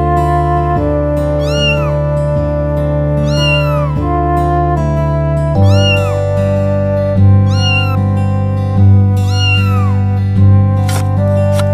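A cat meowing over and over, one arching meow about every second and a half, about six in all, over gentle background music with sustained notes.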